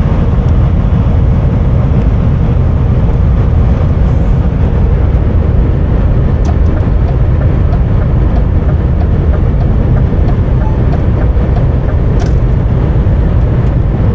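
Steady, loud low rumble inside a semi-truck cab at highway speed: engine, tyre and wind noise with no change in pace, and a few faint ticks over it.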